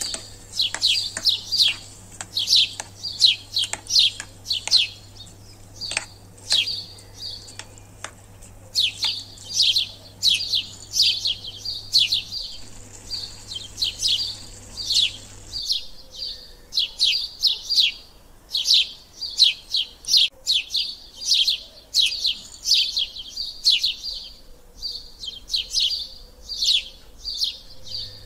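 A small bird chirping over and over: short high chirps that sweep downward, two or three a second. A low steady hum sits underneath and drops out a little past halfway.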